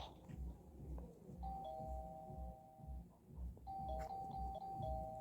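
Two-tone electronic doorbell chime, ding-dong, rung twice.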